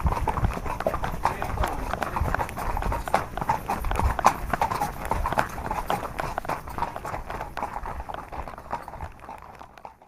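Horses' hooves clip-clopping on hard ground as the horses are ridden, a dense, uneven run of knocks that cuts off suddenly at the end.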